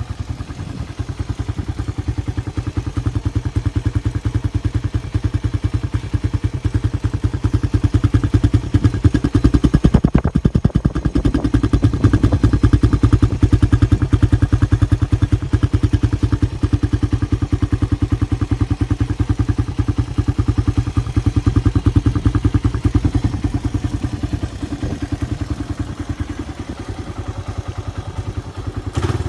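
Suzuki Raider 150's single-cylinder four-stroke engine idling steadily, a little louder through the middle.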